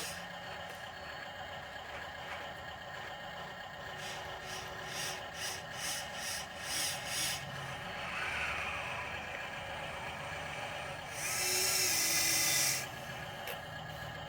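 Dump truck engine running steadily, with a run of about seven pulses, roughly two a second, in the middle. Near the end comes a loud hiss of air lasting about a second and a half, the truck's air brake venting.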